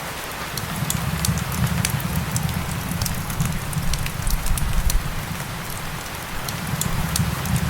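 Steady rain mixed with a crackling wood fire: scattered sharp crackles over an even hiss and a low rumble.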